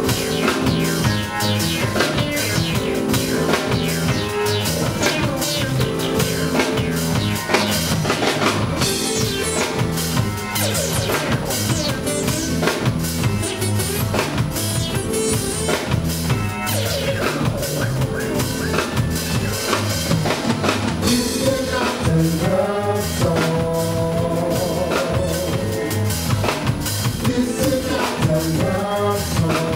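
Band music with a steady drum-kit beat over a moving bass line.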